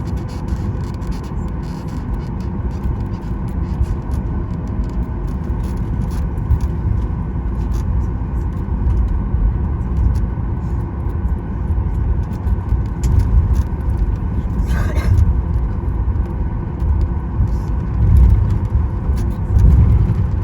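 Steady cabin rumble of a Boeing 737 MAX 9 taxiing, its CFM LEAP-1B engines at idle and the wheels rolling over the taxiway with uneven low bumps. A brief hiss comes about fifteen seconds in.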